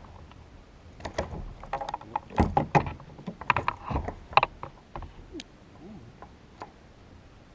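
Knocks and clatter on a kayak as a hooked fish is landed and handled aboard: a dense run of sharp knocks for a few seconds, then a few single knocks.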